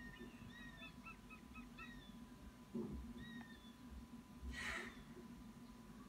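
Faint bird calls in the nest: a quick run of about five short high chirps in the first two seconds, then a brief harsh hissing call near the end. A steady hum runs underneath, and there is a soft thud about halfway through.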